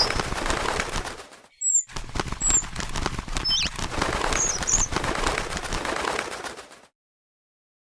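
Birds fluttering their wings in a dense rustle of small clicks, with short high chirps over it. The sound drops out briefly about a second and a half in and cuts off to silence near the end.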